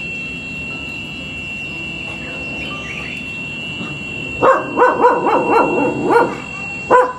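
A dog barking: a quick run of barks starting a little past halfway, then two more single barks near the end.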